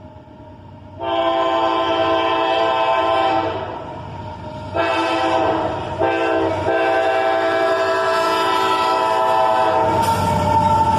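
Freight locomotive's multi-chime air horn sounding a series of blasts, softer for a moment in the middle, with a short break before the last long one, which is held. Low diesel engine rumble rises near the end as the locomotives draw close.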